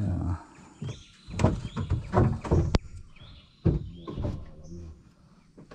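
Small birds chirping over and over in the background. Over them come irregular low knocks and rustles of handling in the boat, with one sharp click a little under three seconds in.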